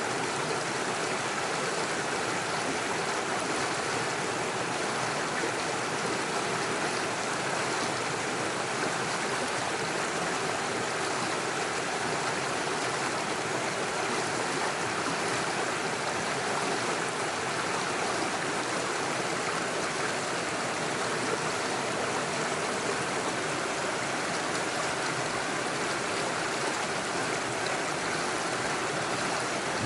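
Small rocky forest stream running steadily, water rushing and splashing over stones in little waterfalls.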